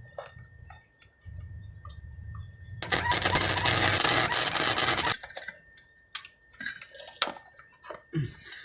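Welding on a steel exhaust pipe: a welder hums, then the arc crackles and hisses for about two seconds before stopping suddenly, followed by a few light metal clinks.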